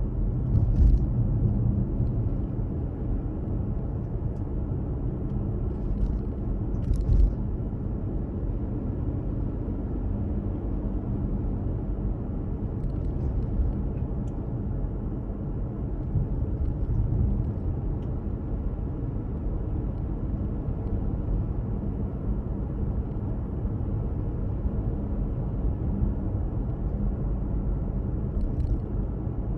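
A car driving along the road: a steady low rumble of engine and tyres, with a couple of short knocks about a second in and about seven seconds in.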